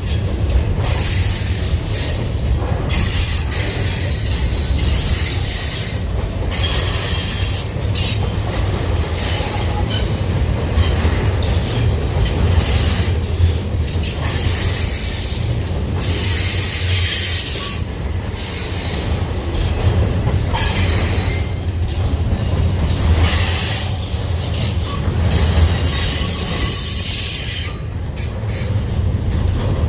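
Union Pacific intermodal freight train rolling past: a steady low rumble of the cars, with a high-pitched hiss and squeal from the wheels that swells and fades every second or two.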